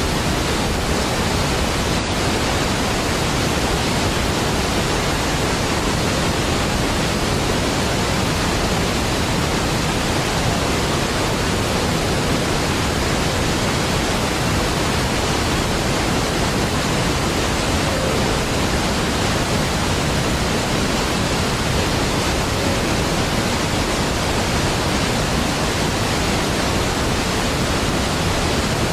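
Large waterfall pouring: a steady, deep, unbroken rush of falling water with no change.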